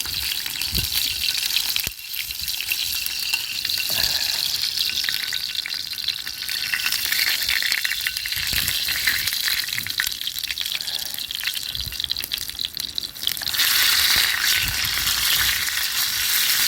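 Chicken cartilage sizzling on a wire grill over a campfire, fat spitting and crackling, getting louder about three-quarters of the way through.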